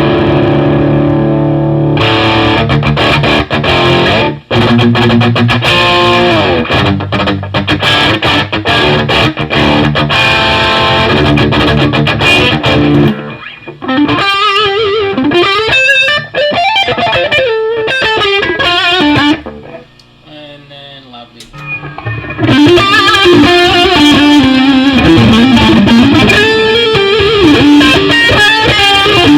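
1972 Gibson Les Paul Custom with humbucking pickups, played with overdriven gain through a Line 6 DT50 tube amp. It rings out sustained chords, then switches about halfway through to single-note lead lines with string bends. There is a short pause before more bent lead phrases.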